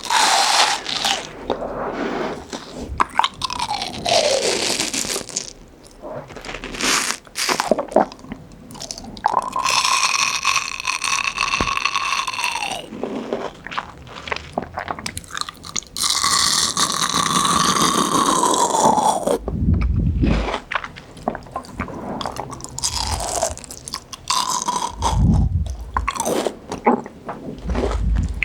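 Crunchy fresh fruit being bitten and chewed close to the microphone, with repeated crisp crunches. Twice, for about three seconds each, a steady high squeaky tone sounds over the chewing.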